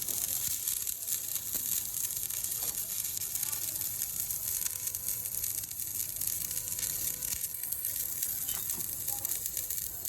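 Electric arc welding on a crankshaft: the arc gives a steady hiss dense with fine crackle.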